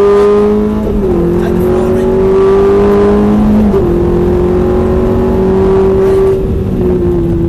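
Ferrari F430's V8 engine accelerating hard, heard from inside the cabin: the note climbs with the revs, drops sharply at two upshifts about one second and four seconds in, then climbs again. Near the end the engine eases off as the throttle is lifted.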